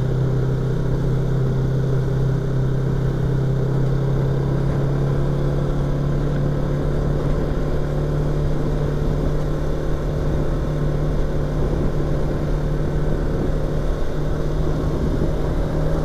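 Yamaha YZF-R25's 250cc parallel-twin engine and exhaust running at steady revs while riding, heard through a microphone inside the rider's helmet. The engine note rises slightly in pitch around the middle.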